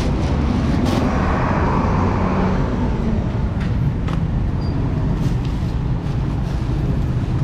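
Motorcycle engine running steadily on the move, with road noise.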